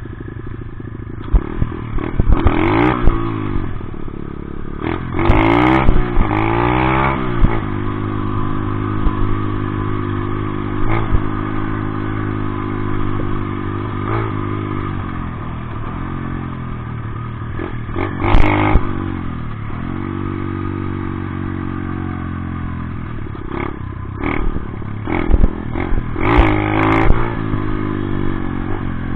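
Dirt bike engine running under way, revving up and falling back several times (about 2 s in, from 5 to 7 s, near 18 s and near the end) with a steadier stretch in between, and sharp knocks scattered through.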